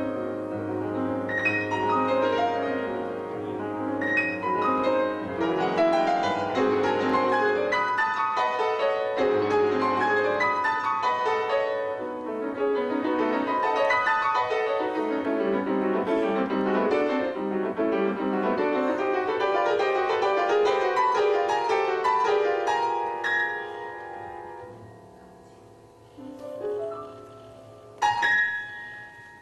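Solo piano playing a fast, dense passage with many notes across the keyboard. It grows softer and sparser after about 23 seconds, and a sudden loud chord is struck near the end.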